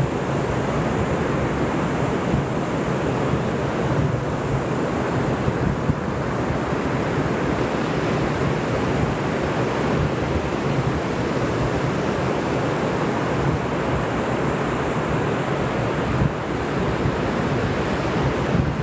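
Ocean surf and wind, a steady rushing with wind buffeting the microphone.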